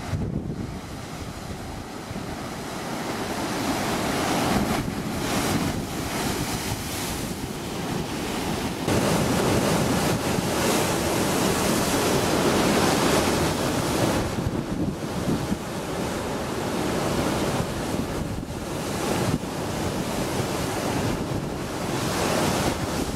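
Sea waves washing, with wind buffeting the microphone. The sound changes abruptly about 9 seconds in and again near 15 seconds.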